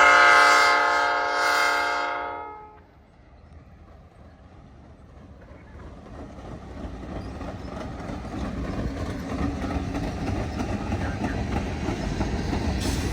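A diesel locomotive's multi-chime air horn sounds loudly right at the start and fades out within about three seconds. After it comes a rumble of train noise that builds gradually to the end.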